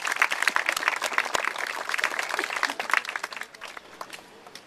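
Crowd applauding, dense clapping that thins out and fades away about four seconds in.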